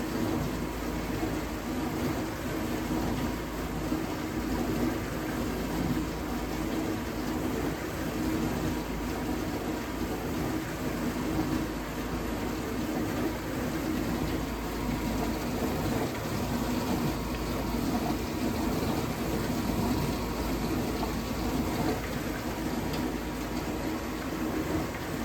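Vintage dishwasher running its wash cycle: a steady pump hum with water spraying inside the tub. The owner suspects the pump is restricted, since the water no longer hits the tub at full force.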